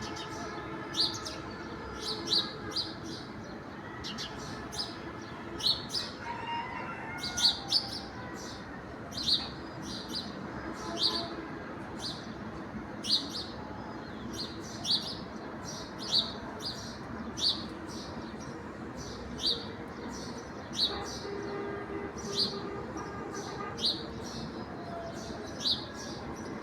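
A bird giving short, sharp high chirps over and over, about one every second and a half, over a steady background hum.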